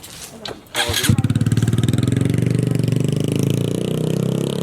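A vehicle engine starts about a second in and then runs loudly with a fast, even pulsing, its pitch easing slightly downward.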